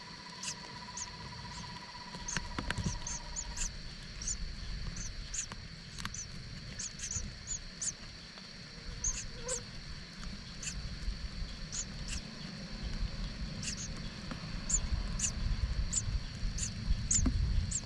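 Short, high-pitched squeaks from a small animal, repeated at irregular intervals, over a steady high whine and a low rumble.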